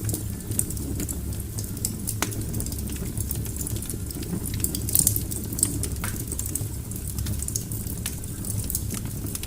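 Wood fire burning in a fireplace: a steady low roar with irregular sharp crackles and pops of burning logs, a cluster of louder pops about five seconds in.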